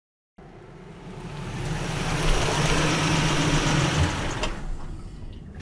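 A car engine running, swelling in from silence about half a second in, holding steady with a rushing noise over a low hum, then fading near the end.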